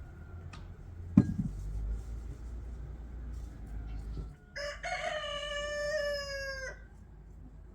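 A rooster crowing once, one drawn-out call of about two seconds in the second half. A single sharp knock comes about a second in, followed by a low rumble.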